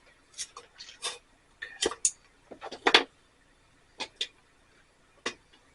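Irregular clinks and knocks of a small metal bush pot and alcohol stove being handled and set up to heat water, about a dozen sharp strikes, the loudest about three seconds in.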